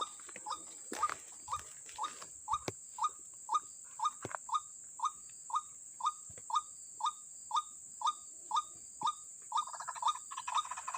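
White-breasted waterhen (ruak-ruak) calling: a short rising note repeated about twice a second, breaking into faster chattering near the end. A few sharp clicks come in the first half, and a steady high whine runs behind.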